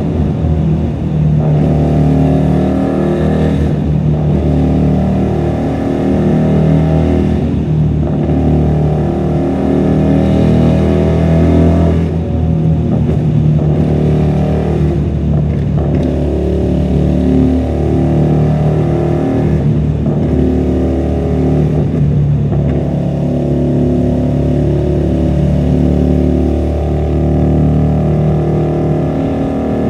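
QJMotor SRV250's 250 cc V-twin running through a custom-made 2-into-1 exhaust while being ridden, its pitch climbing and falling with the throttle, with several brief dips along the way. Heard from a microphone in the rider's bag.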